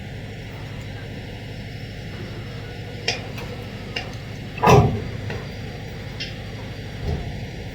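Steady low rumble of heavy lifting machinery, with a few sharp knocks from the lifting gear. The loudest knock comes a little past halfway.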